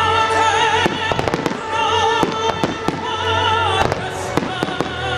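Fireworks bursting in many sharp bangs and crackles over loud music with wavering held notes played for a pyromusical display.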